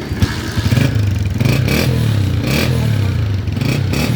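Honda CG 125's single-cylinder four-stroke engine running and being revved several times, getting louder early on.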